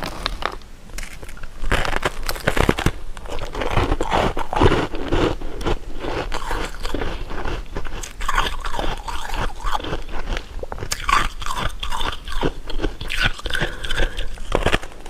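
Close-miked eating of candy and jelly sweets: bites and chewing with many sharp crunching crackles throughout.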